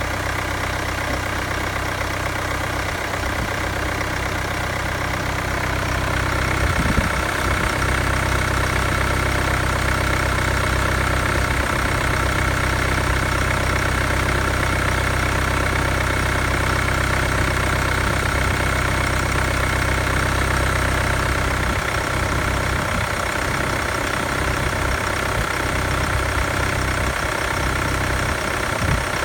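2018 Mercedes-Benz GLA 200 d's 2143cc four-cylinder turbo diesel idling steadily. It grows a little louder, with a brighter hiss added, about six seconds in, and there is one brief knock about a second later.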